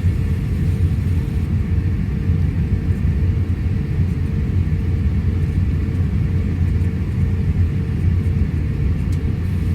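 Steady low rumble inside the cabin of an Airbus A350-1000 airliner rolling on the ground after landing, with a faint steady hum running through it.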